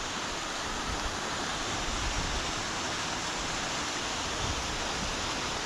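Steady rush of water from a small waterfall coming down a hillside.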